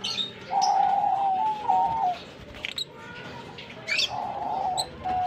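Caged lovebirds giving short, sharp chirps, over repeated held, steady hooting tones of about a second each.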